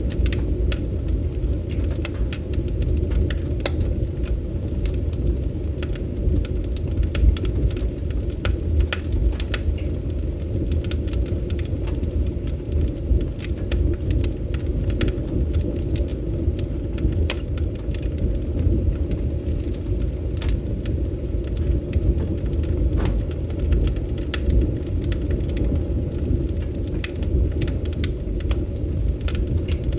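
Wood fire burning in a fireplace: a steady low roar of the flames with frequent irregular sharp crackles and pops.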